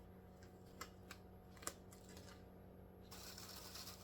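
Faint handling sounds of a gloved hand peeling an adhesive wound dressing off: a few small sharp clicks, then a crinkly rustle starting about three seconds in.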